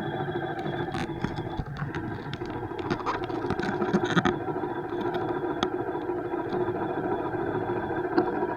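Steady riding noise from a moving bike: a constant rushing hum with a few fixed tones, broken by frequent short clicks and rattles.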